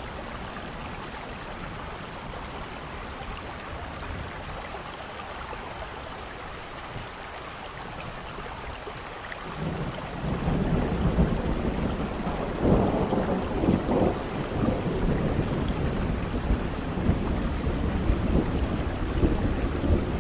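Steady rain falling, then about halfway through a long roll of thunder starts and rumbles on beneath the rain, loudest a few seconds after it begins.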